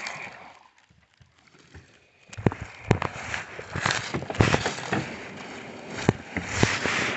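Near quiet at first, then from about two seconds in a run of crackling, rustling and sharp knocks: someone pushing through brush and stepping on the shore.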